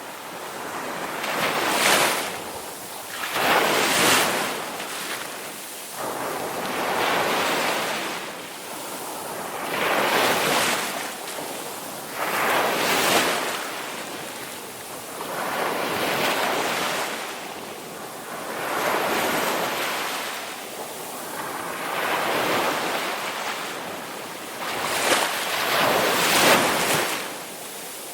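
Ocean waves breaking on a shore, one surge after another about every two to three seconds, each swelling to a rush and dying away.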